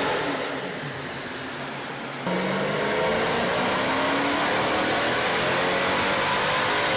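Straight-piped Mercedes C63 AMG's naturally aspirated 6.2-litre V8 running hard under load. Its note eases off briefly, comes back in sharply about two seconds in, then climbs slowly in pitch as the revs build.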